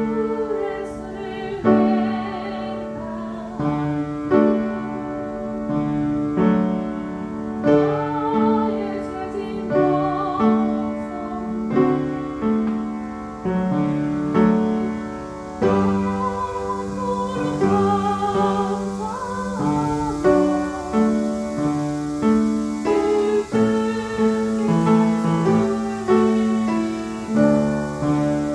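Piano playing chords under a sung worship song, the voice held on long notes with vibrato.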